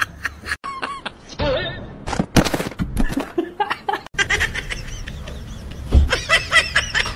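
People laughing and chuckling with a little talk, cut off abruptly twice where one clip jumps to the next.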